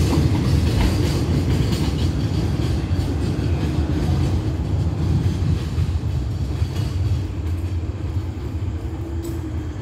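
Rear of a freight train rolling past on the station track and moving away: a steady low rumble of wheels on rails, with a few clacks in the first couple of seconds, slowly fading.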